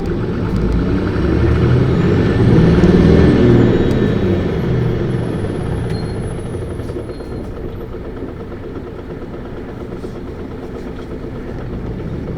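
Isuzu Erga city bus's diesel engine revved hard under acceleration, heard from inside the bus. The revs climb to a peak about three seconds in, then fall away as the bus eases off and runs on more quietly.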